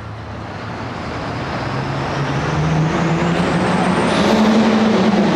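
Turbocharged diesel Super Farm pulling tractor working hard during a pull, its engine revs climbing and growing louder. A high turbo whine rises steadily in pitch with it.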